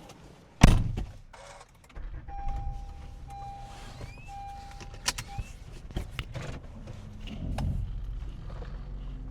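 A car door shuts with a loud thump, then the car's engine starts and runs steadily at idle. A steady electronic tone sounds in three stretches while the engine runs.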